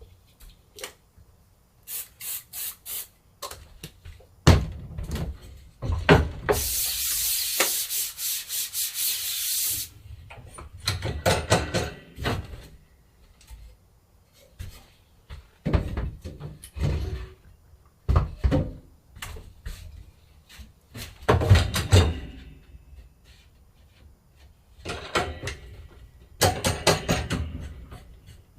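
Hand work on a silkscreen screen during plate making: bursts of rubbing and scraping strokes with knocks and clatter, including a quick run of even strokes early on and a few seconds of steady hissing noise about a third of the way through.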